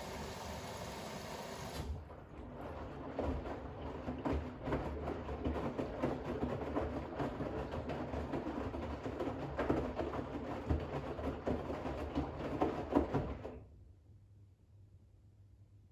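Bosch WAX32GH1 washing machine in its final rinse. The water inlet's hiss cuts off about two seconds in. The drum then turns, sloshing wet towels through the rinse water with uneven splashes and knocks, and stops near the end, leaving a low hum.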